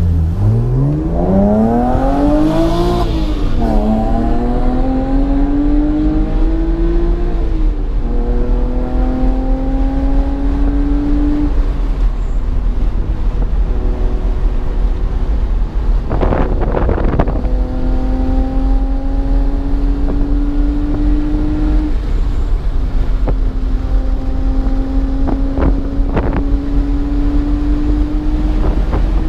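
BMW 1 Series engine at full throttle on track, heard on board. The revs climb hard, drop at upshifts about three and seven seconds in, then hold under load, rising slowly for long stretches. A couple of brief knocks come around the middle and near the end.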